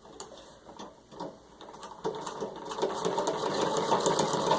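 Treadle-driven 1923 Singer 127 sewing machine starting to stitch through six layers of denim: a few soft clicks, then about two seconds in the even, rhythmic clatter of the needle mechanism starts and grows louder.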